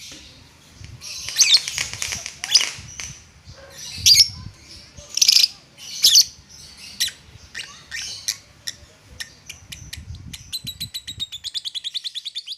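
Lovebird calling in short, shrill squawks and chirps, then breaking into a fast run of ticking notes, about a dozen a second, near the end: the 'ngetik' call, named for its typewriter-like sound.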